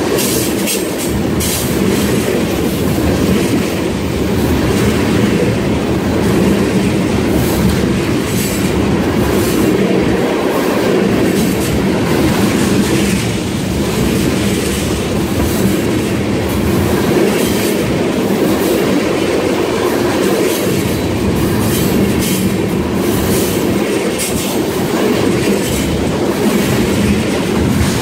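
Loud, steady rumble of a freight train's tank cars rolling past on steel wheels, with irregular clicks and clanks from the wheels and couplings.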